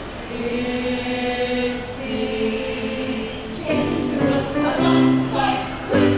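Choir singing a Christmas piece in held chords that change every second or so, building in loudness about halfway through.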